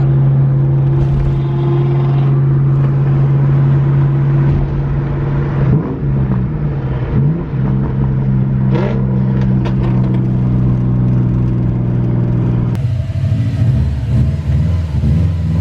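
Car engine running loud and steady under way, with brief swoops in pitch about six and seven seconds in; the engine note changes abruptly near the end.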